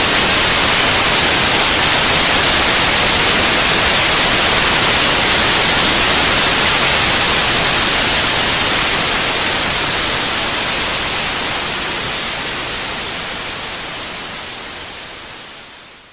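Steady white noise, an even hiss strongest in the treble, played as a sleep aid for babies; it fades out gradually over the second half, down to nothing at the end.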